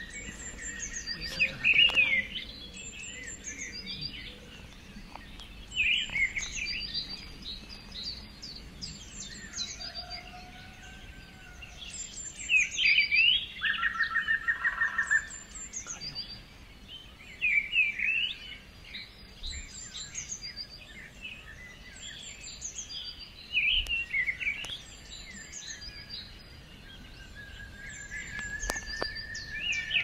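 Several wild forest birds calling. One repeats a short song phrase about every five or six seconds, with high thin notes above it; a rapid run of repeated notes comes about halfway through, and a long drawn whistle near the end.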